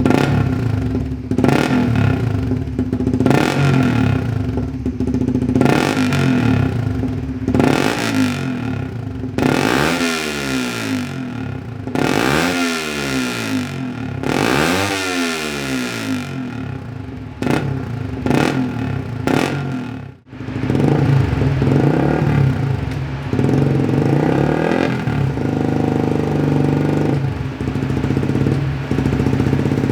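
Suzuki GSX-R150's 150 cc single-cylinder four-stroke engine through a Yoshimura R77 full-system exhaust, blipped repeatedly, then revved up and let fall back several times in long sweeps. About two-thirds of the way through the sound cuts briefly, then the engine runs on more steadily with smaller rises in revs.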